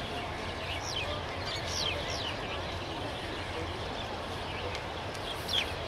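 Outdoor ambience of a distant passenger train's steady low rumble, with birds giving several short falling chirps, a cluster about a second in and another near the end.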